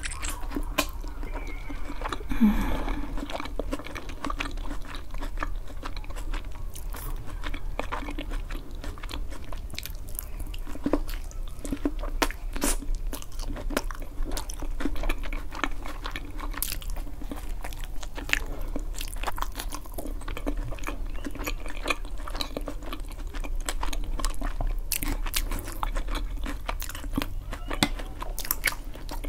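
Close-miked biting and chewing of oven-baked eggplant topped with cheese and garlic, with many small wet mouth clicks and smacks. A short hum comes about two and a half seconds in.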